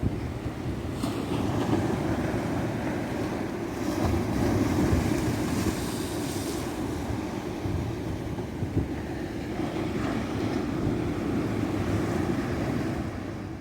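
Ocean surf washing onto a beach: a steady rush of waves that swells and ebbs, with a louder, hissier break about four to seven seconds in.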